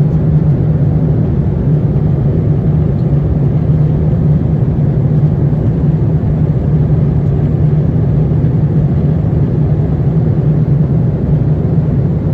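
Steady low rumble of cabin noise inside an Airbus A350-900 airliner in flight, from its Rolls-Royce Trent XWB engines and the airflow over the fuselage.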